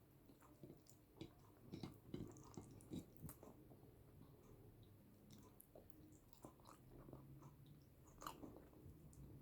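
Soft close-miked chewing of boiled yam with eggplant sauce: scattered wet mouth clicks and smacks, a few louder ones about two, three and eight seconds in.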